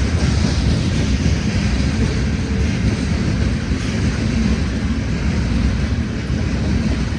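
Freight train rolling past, a steady loud rumble and rattle of steel wheels on the rails.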